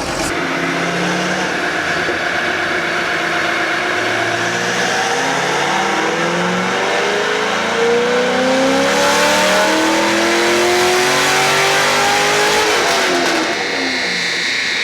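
Car engine on a chassis dyno making a wide-open-throttle pull: the engine note climbs steadily in pitch for most of the run, then drops as the throttle is lifted near the end.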